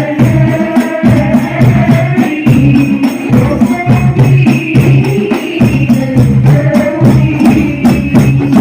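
Hadroh ensemble playing: rebana frame drums struck in a fast, steady rhythm with a deep bass drum, under voices singing a sholawat melody, loud through an amplified sound system.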